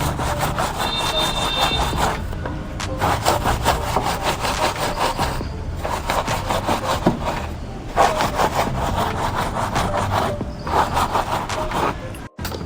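A stiff brush scrubbing a surface in quick back-and-forth strokes, in runs of a few seconds with short pauses between them.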